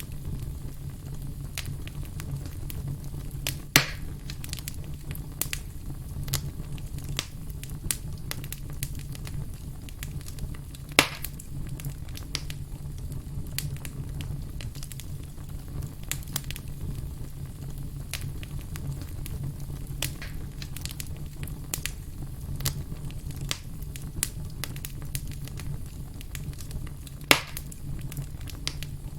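Wood fire crackling, with frequent small snaps and three much louder pops spread through, over a steady low rumble.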